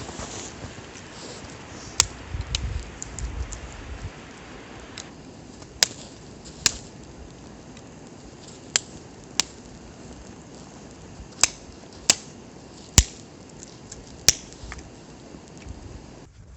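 Wood campfire crackling: a steady hiss of flame with about ten sharp, irregular pops of burning wood.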